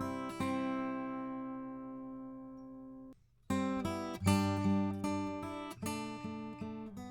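Acoustic guitar strumming chords, played through a Warm Audio EQP-WA tube equalizer with its low cut engaged. One chord rings and fades for about three seconds, then after a brief break a run of chords is strummed.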